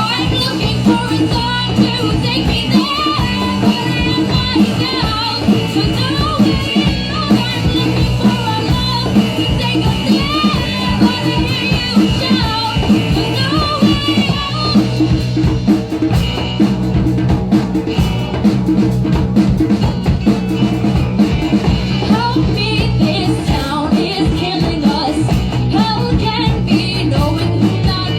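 Live rock band music: acoustic guitar with drums and a wavering melodic line on top, which drops out about halfway through and returns near the end. The acoustic guitar is out of tune.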